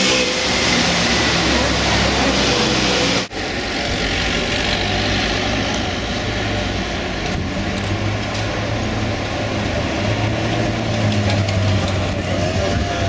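Ferrari 458 Spider's V8 running at low revs in slow city traffic, first echoing inside a tunnel, then, after a sudden break about three seconds in, on an open street with other cars passing. A steady low engine hum dominates in the later part, and the pitch starts to climb right at the end.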